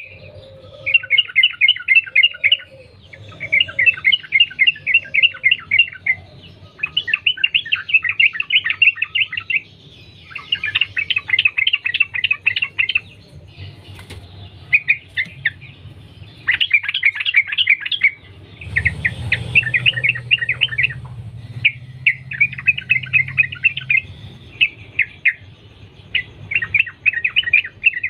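Yellow-vented bulbul (trucukan) singing a long run of fast, rattling phrases of rapid chirps. Each phrase lasts one to two seconds, with short pauses between, and the phrases repeat over and over. A low hum runs underneath and grows louder for a few seconds past the middle.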